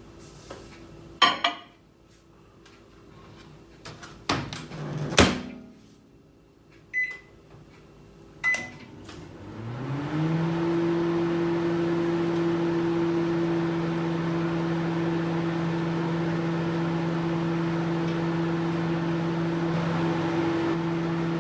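Microwave oven: a few sharp clicks and a knock as the door is worked, two short keypad beeps, then the oven starts up. Its hum rises in pitch over about a second and settles into a steady hum with a fan whir.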